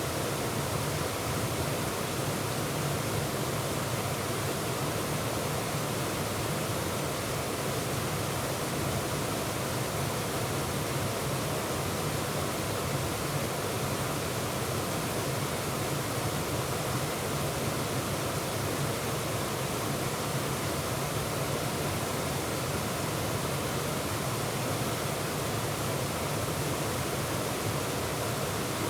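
Waterfall pouring, heard from close up: a steady, even rush of falling water with no breaks or changes.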